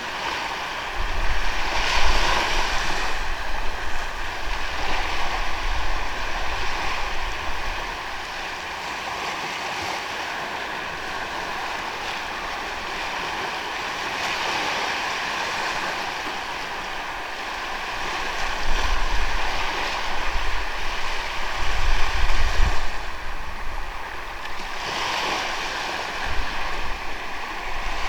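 Sea waves washing onto a sandy beach in a continuous hiss that swells about two seconds in and again about two-thirds of the way through. Low wind buffeting on the microphone accompanies the louder swells.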